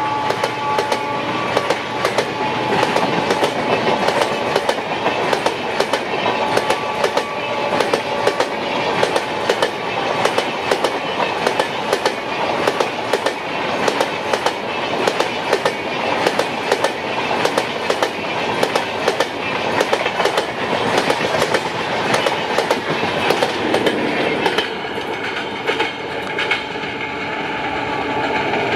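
Passenger coaches of an express train rolling past at speed close by, the wheels clicking rapidly and unevenly over rail joints. Near the end the clatter thins out as the train draws away, leaving a steady hum.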